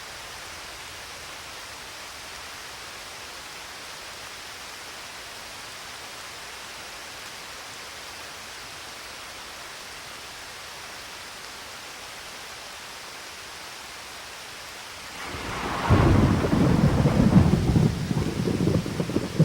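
Steady rain falling, an even hiss. About fifteen seconds in, a loud clap of thunder breaks in and rolls on as a crackling rumble.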